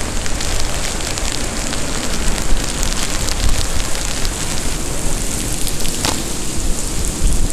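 Steady rain with scattered sharp drop clicks close to the microphone, over a heavy low rumble of wind buffeting the mic during a windy rainstorm.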